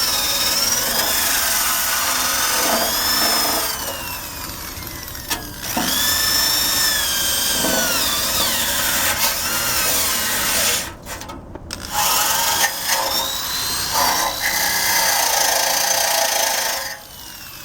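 Cordless drill spinning a wire brush against the Honda Cub's steel frame to scour off rust. The high whine rises and falls in pitch as the brush is loaded. It stops briefly about halfway through and cuts off shortly before the end.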